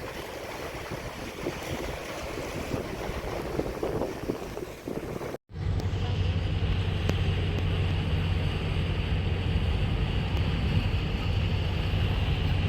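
Wind on the microphone and waves, then, after a sudden cut about five seconds in, the steady low drone of a ship's engine.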